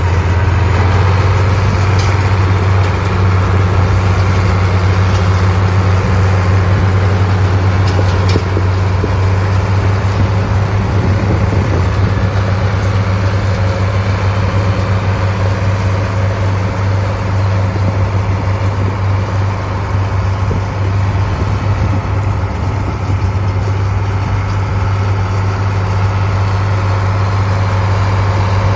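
Farm tractor engine running steadily, with a deep constant hum.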